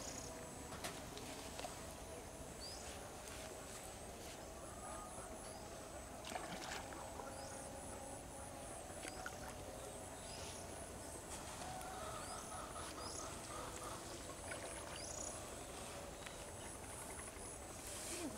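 Quiet outdoor ambience: birds give short rising chirps about every two seconds over a steady low background hum.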